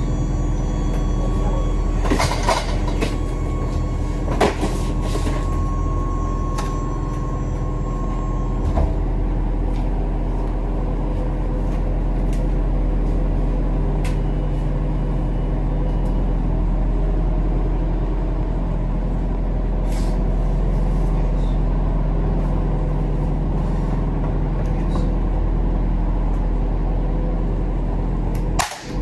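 Tractor-trailer's diesel engine running steadily, with a couple of short sharp sounds about two and four seconds in and a steady high tone that stops about nine seconds in.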